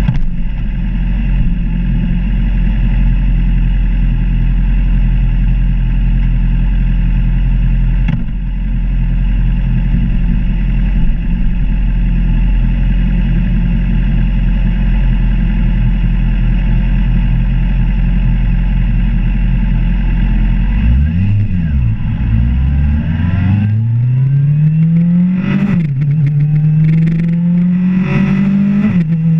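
Suzuki GSX-R750 inline-four engine idling steadily at a stop, then pulling away some twenty seconds in: the revs climb, drop at a gear change and climb again.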